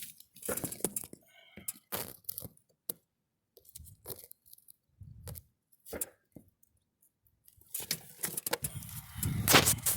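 Handling noises of tools at an engine block: scattered light clicks, rattles and scrapes with short quiet gaps, busier near the end, where the loudest click falls.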